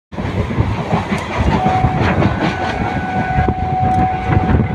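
Ride in a moving vehicle: continuous rumbling with clattering and rattles, and a steady whine that sets in about a second and a half in.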